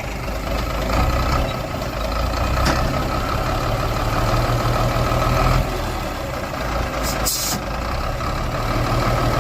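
Heavy truck engine running steadily under load with a steady whine over it; the note changes a little past halfway. A short air hiss comes about seven seconds in.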